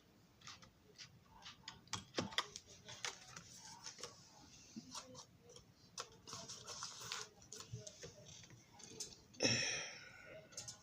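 Faint, irregular clicks and light taps from handling and cutting a small piece of styrene plastic sheet with hobby tools, with one louder, short scrape near the end.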